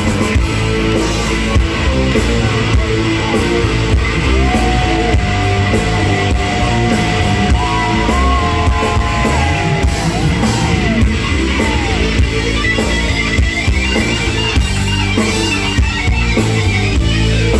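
Live rock band playing an instrumental break between sung lines: guitar over bass and drums with a steady beat, a long held lead note bending slightly in the middle.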